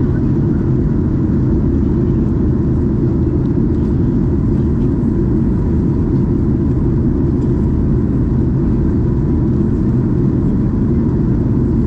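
Steady cabin noise inside a Boeing 737-800 in flight: an even, deep rush of airflow and engine noise, unchanging throughout.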